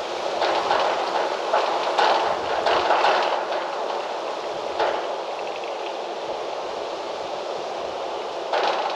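Wind gusting outdoors, with a crackling rustle that swells for a few seconds early on and again briefly near the end.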